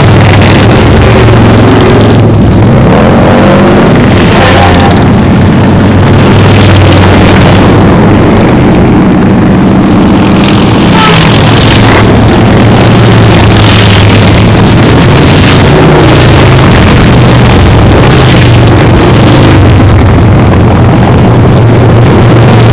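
A steady stream of motorcycles passing close by in a parade, their engines running loud together, with a new bike surging past every couple of seconds.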